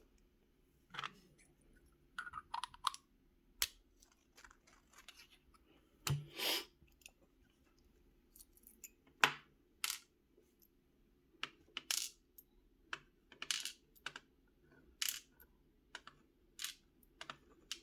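Small metal lock parts and tools clicking, tapping and briefly clinking as a Corbin Master Ring mortise cylinder is taken apart, in scattered sharp clicks with a few short scrapes.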